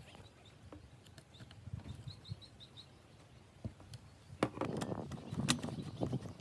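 A small bird chirps a quick run of five short high notes. Then come louder sharp clicks and knocks with a rattling clatter, as of parts or tools being handled.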